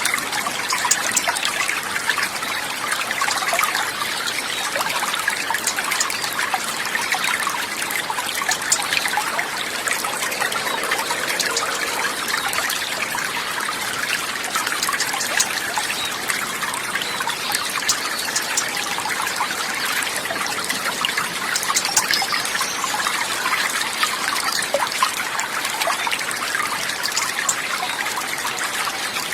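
Running water trickling and babbling steadily, a dense continuous splashing with no pauses or changes.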